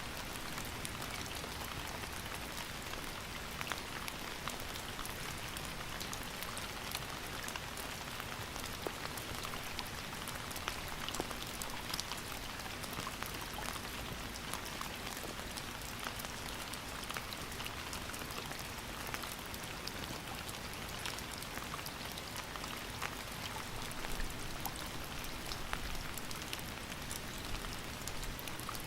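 Steady rain falling, a continuous hiss with many distinct drops ticking on a surface.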